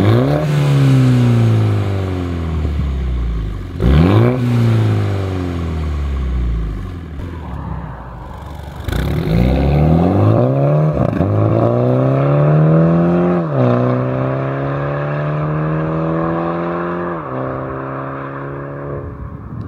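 Mini Cooper JCW's 2.0-litre turbocharged B48 four-cylinder running through a turbo-back exhaust with a free-flow downpipe and no catalyst. It is revved sharply twice, the pitch falling back slowly each time. It then pulls up through the revs again, with the pitch dropping in steps three times like upshifts.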